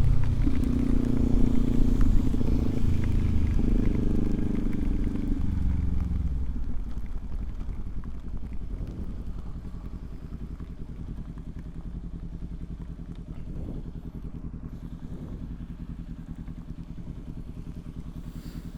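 Motorcycle engine running under way, then its pitch and level dropping about five or six seconds in as the bike slows, leaving a quieter, lower running sound.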